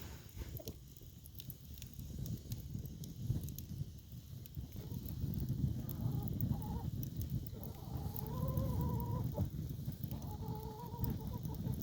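Firewood crackling and popping in a fire, over a low steady rumble. In the second half a chicken calls three times, each call about a second long.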